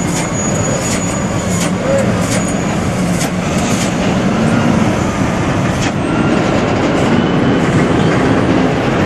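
Heavy truck running: a loud, steady rumble of engine and road noise with scattered clicks and rattles.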